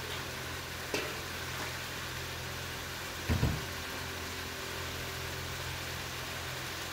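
Potato sabzi sizzling steadily as it fries in a kadhai on the stove, with a light click about a second in and a low double thump at about three and a half seconds in.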